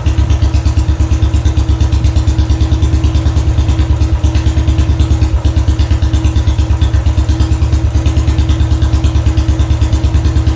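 Royal Enfield Classic 500's single-cylinder four-stroke engine idling through its aftermarket exhaust silencer, a steady, even beat of about ten pulses a second.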